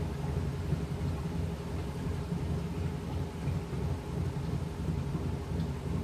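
Washing machine running a cycle: a steady low rumble with a constant hum.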